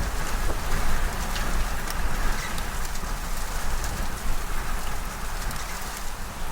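Heavy wind-driven rain and hail pelting down, a steady hiss with scattered sharp hits, and wind rumbling on the microphone.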